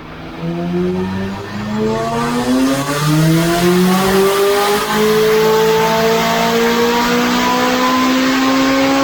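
McLaren 570S twin-turbo V8, breathing through a full catless aftermarket exhaust, running loud at full throttle. The revs climb in steps over the first few seconds, then rise steadily in one long pull.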